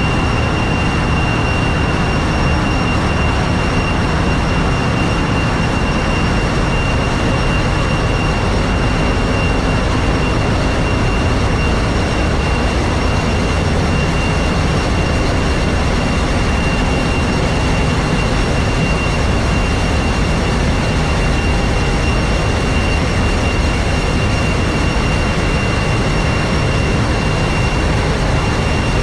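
Steady, loud machinery noise of a large ship's engine room: a deep, even rumble with a thin, high steady whine on top.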